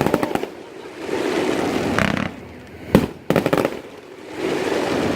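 Aerial fireworks exploding: several sharp bangs, the loudest about three seconds in, followed at once by a quick run of crackling reports.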